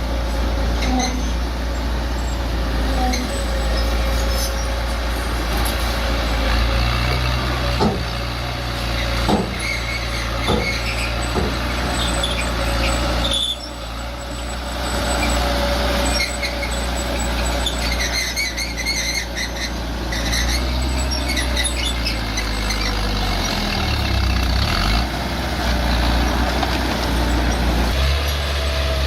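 Bulldozer's diesel engine running steadily, with a few sharp knocks about a third of the way in and high metallic squeaks later on.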